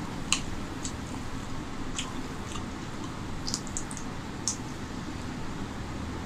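A person eating rice and chicken curry by hand, close to the microphone: wet chewing with scattered short, sharp mouth clicks and smacks over a steady low background noise.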